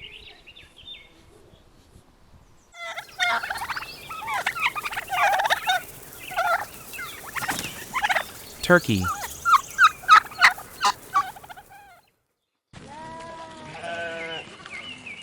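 A group of domestic turkeys gobbling and calling, with many short, sharp, quavering calls in quick succession that stop abruptly near the end. A wavering bleat follows soon after.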